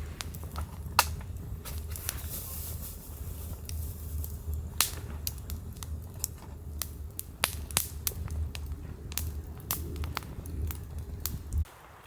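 Wood campfire crackling, with sharp irregular pops several times a second over a low steady rumble; it all cuts off abruptly near the end.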